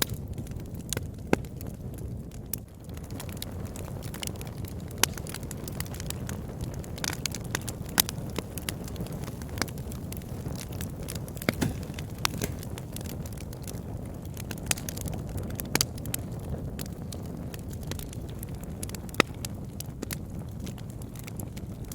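Wood fire burning in a fireplace: a steady low rumble of flames with frequent sharp, irregular crackles and pops, a few of them louder.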